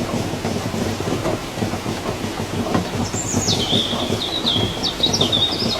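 Steady rain pattering, with a bird calling from about three seconds in: a high whistle falling in pitch, then a run of short quick notes.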